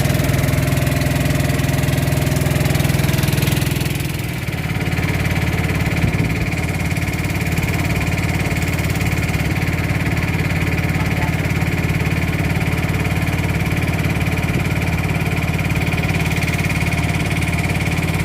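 Small boat engine running steadily under way, its note dipping briefly about four seconds in and then settling at a slightly different pitch.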